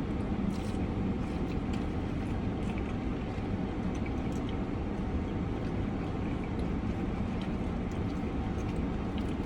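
Steady low rumble of a car's engine idling, heard from inside the cabin, with a few faint small ticks over it.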